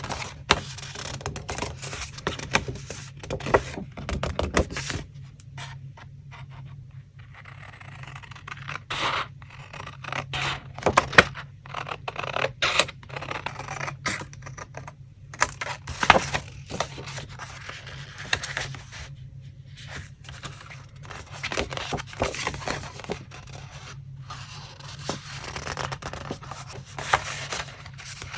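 Paper and craft materials being handled for a collage: irregular rustling and scraping of paper with sharp light taps and clicks, over a steady low hum.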